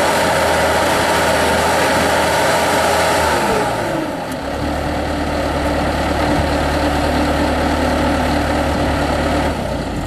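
Bobcat T300 tracked skid steer's diesel engine running at high revs; about four seconds in its note drops and the level dips briefly, then it runs steadily again.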